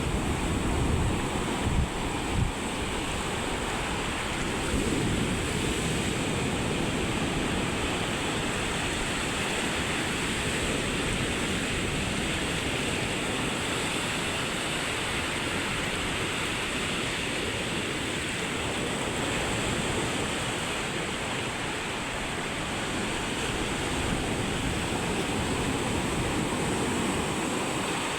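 Sea surf washing steadily onto a beach, with wind buffeting the microphone in a few gusts during the first couple of seconds.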